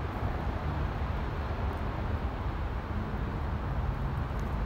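Freight train of autorack cars rolling past at slow speed: a steady low rumble of wheels on the rails.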